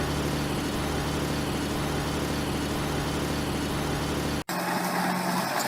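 Engine sound effect of a heavy vehicle idling steadily, cut off abruptly about four and a half seconds in and replaced by a thinner steady engine sound.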